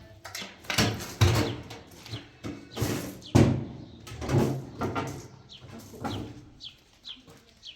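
A series of irregular knocks and scrapes, loudest in the first half, with short, high, falling chirps repeating in the background.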